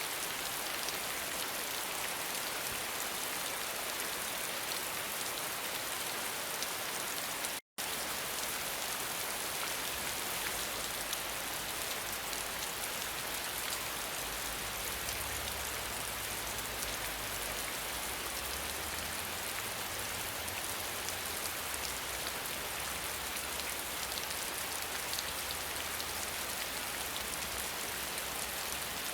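Steady rain falling, a dense even hiss of drops. It cuts out to silence for an instant about 8 seconds in, and from about 10 seconds a low rumble runs underneath.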